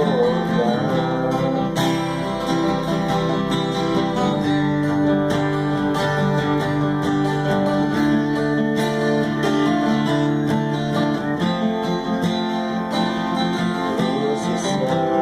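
Acoustic guitar playing a steady instrumental passage of plucked and strummed chords, after a sung line ends about a second in.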